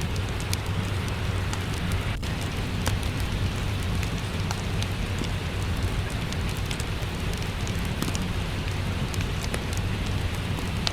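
Steady rain mixed with a crackling wood fire: an even hiss of rain over a low rumble, broken by frequent small, sharp crackles and pops.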